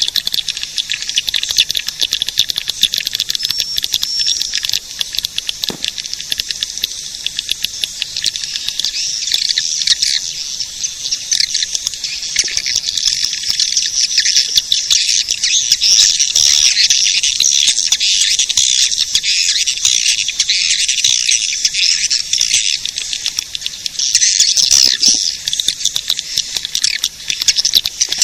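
Swiftlet-caller recording: a dense, continuous chorus of swiftlets twittering in rapid high chirps, with no low sound under it. It is the lure sound played to draw swiftlets to roost and nest in a swiftlet house.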